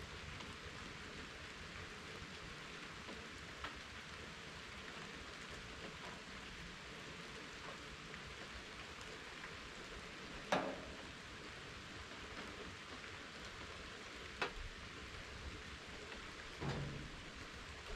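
Steady rain falling, a soft even hiss, with a few sharper single taps standing out, the loudest about ten seconds in.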